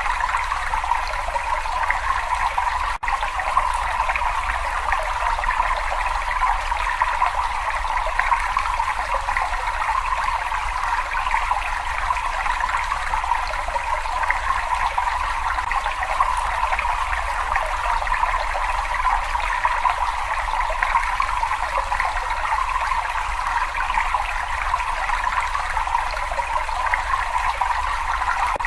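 Water running and trickling in an even, unbroken stream, with a momentary dropout about three seconds in.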